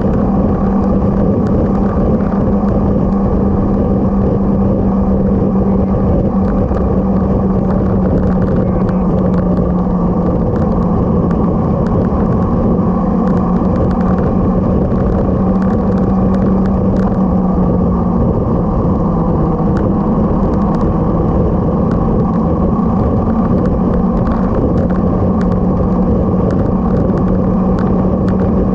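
Motorcycle engine running steadily under way, a constant drone that shifts slightly in pitch now and then, over continuous road noise.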